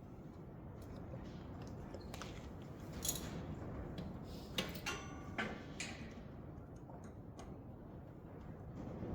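Scattered light clicks and taps of hand work on the heater's fuel-pump hoses and fittings, the sharpest about three seconds in and just before five seconds, with a brief squeak just after five seconds.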